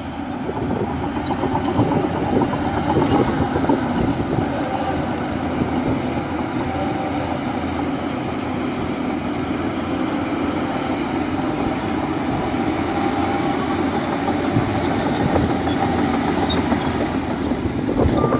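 Shantui crawler bulldozer working: its diesel engine runs steadily under a continuous rapid clatter of steel tracks.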